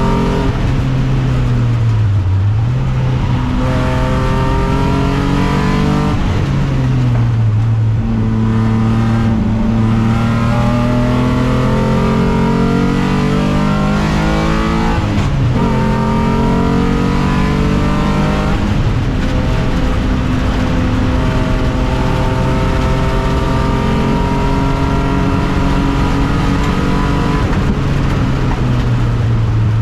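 Alfa Romeo 156 3.0 V6 race car engine running hard. Its pitch holds fairly steady for long stretches and drops sharply three times before climbing again, as with gear changes or lifting for corners.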